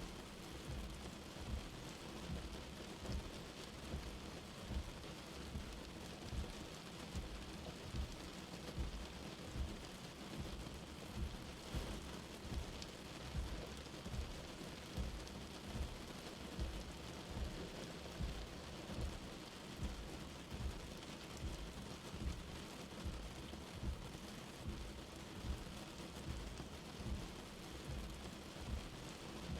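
Light rain falling steadily, with soft low thuds recurring about once a second beneath the patter.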